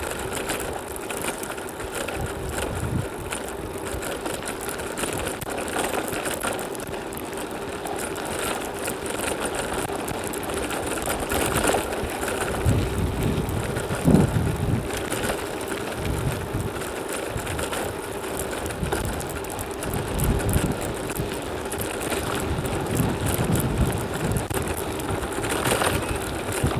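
Bicycle being ridden in strong wind: a steady whir from the bike under gusts of wind buffeting the microphone, the gusts strongest about halfway through and again near the end.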